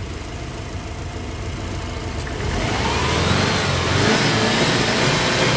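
Subaru EJ207 2.0-litre turbocharged flat-four engine, fully warmed up, idling steadily and then revved up from about halfway through, the revs rising and falling. No knock is heard at hot running, which the owner takes to rule out the connecting rods as its source.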